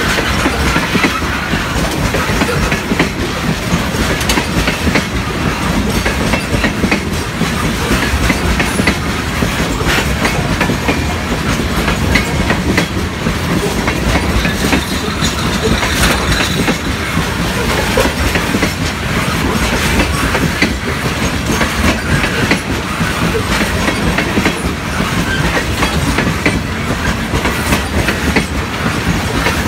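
Gravel train's open-top hopper cars rolling past close by, steel wheels clacking over rail joints in a steady, continuous rumble.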